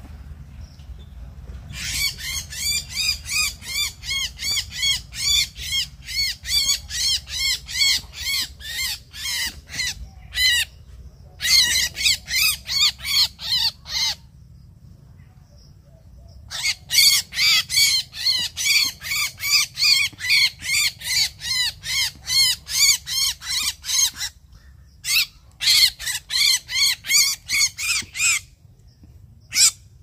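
A bird calling close by in rapid repeated calls, about three a second, in long runs broken by short pauses about 14 and 24 seconds in.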